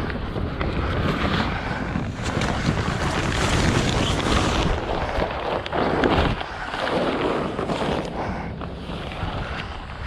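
Wind buffeting the microphone over the rush of water and waves around a sailing boat under way, swelling louder about halfway through.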